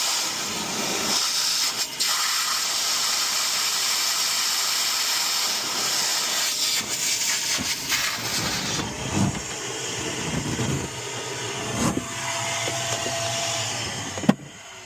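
A steady hissing rush of noise with scattered knocks and clicks, ending abruptly with a sharp knock near the end.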